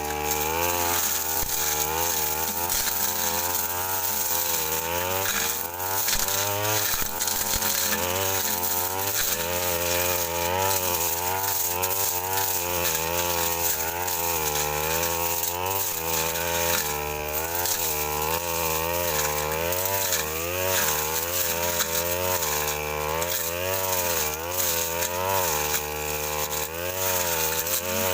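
Brush cutter engine running at high throttle while its blade clears dense undergrowth, the engine pitch dipping and recovering again and again as the blade bites into the brush.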